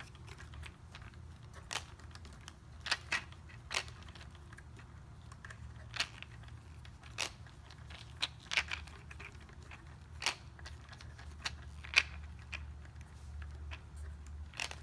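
Irregular small clicks and taps from hands and a tool working on a plastic RC tank, tightening a screw, over a low steady hum.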